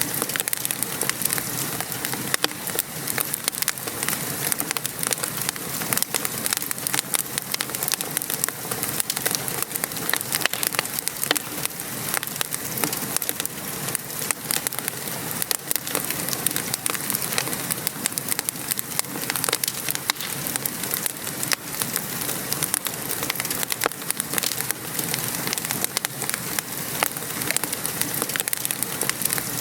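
Steady patter of rain, mixed with frequent sharp, irregular crackles from a fire in a fireplace.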